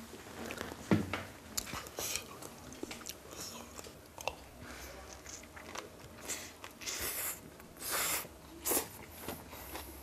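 Mouth noises of someone biting into and chewing a Chinese spring pancake wrap filled with stir-fried dishes, in short wet bursts that bunch up in the second half. A single sharp knock about a second in is the loudest sound.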